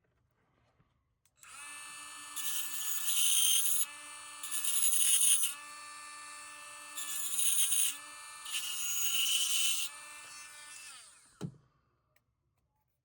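Small electric rotary tool running with a steady whine, its bit grinding into plastic in four louder passes as it hollows out a model kit's engine parts. It stops about eleven seconds in, with a short knock.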